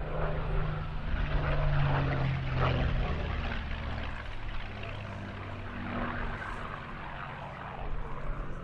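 A Rolls-Royce Merlin V12 in a wartime fighter flying past, a steady propeller-driven drone that is loudest about two seconds in and then fades.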